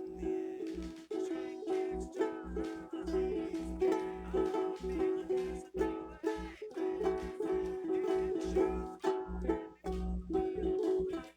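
An acoustic string instrument strummed in steady, repeated chords.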